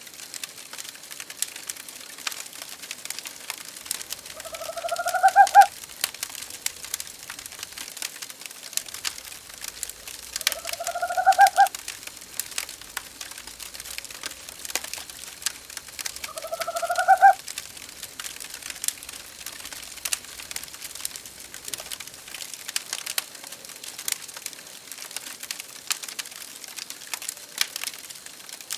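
Wood fire crackling in a fireplace with scattered sharp pops. An owl calls three times, each a hoot about a second long that rises slightly in pitch, about six seconds apart.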